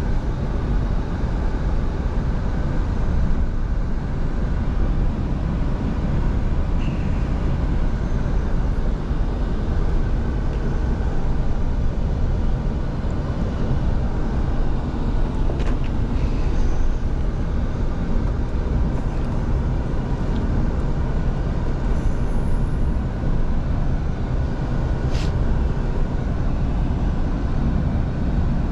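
Scania V8 truck on the move: steady engine and road noise at an even speed, with a few faint clicks.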